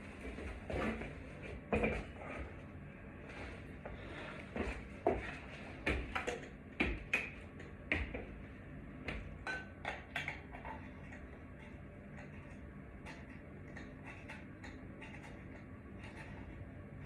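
Scattered light clinks, taps and knocks of small hardware and tools being handled while a ceiling fan is installed. The knocks are busiest in the first ten seconds and thin out after that, over a faint steady low hum.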